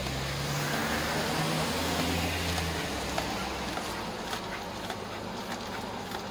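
A motor vehicle's engine running close by with a steady low hum and road noise. It drops away after about four seconds, leaving street traffic noise with a few scattered light clicks.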